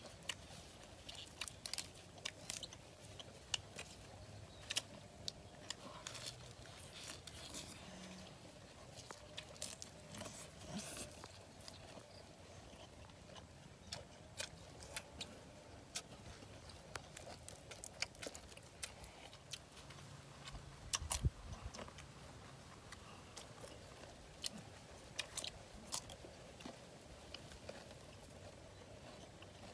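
Close eating sounds of two people chewing and biting into cooked duck offal and raw cucumber, made up of many irregular sharp crunches and mouth clicks. A louder knock comes about two-thirds of the way through.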